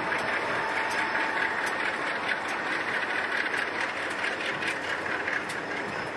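Conrail freight train passing at speed: the trailing diesel locomotive goes by and loaded hopper and gondola cars follow, a steady rolling rumble with scattered sharp wheel clicks and a faint steady whine.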